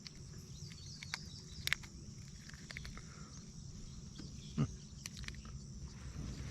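A steady, high insect chorus over a low outdoor rumble, broken by a few sharp clicks and knocks, the loudest about two seconds in and again past the middle.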